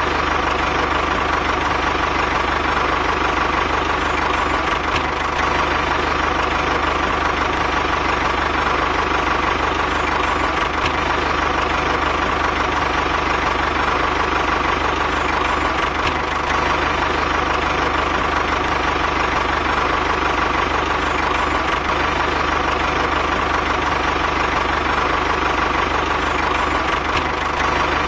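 An engine-like motor running steadily at an even pace, with no change in speed or loudness.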